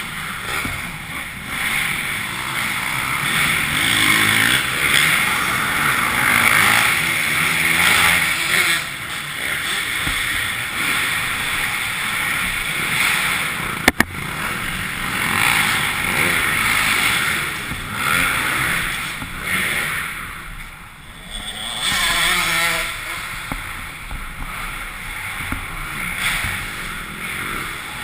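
Yamaha YZ450F single-cylinder four-stroke dirt bike engine running, its revs rising and falling with the throttle, with steady rushing noise over it. It briefly drops off about two-thirds of the way through, then revs back up. A single sharp click is heard about halfway.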